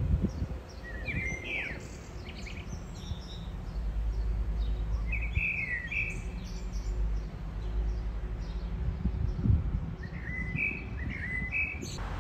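Small songbirds chirping in the trees, short calls coming in three bunches a few seconds apart, over a steady low rumble.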